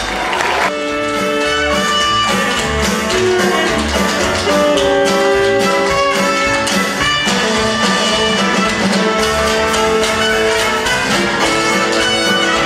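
Instrumental show-tune music from a musical theatre orchestra, with held notes over a busy rhythm, at a steady loud level.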